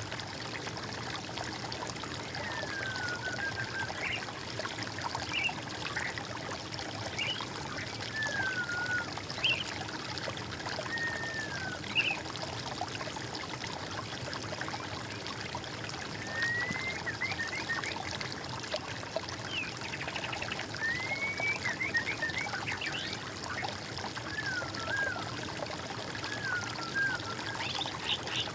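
Water trickling and running steadily, with a songbird singing short whistled phrases over it: falling slurred notes and quick runs of chirps, coming and going every few seconds.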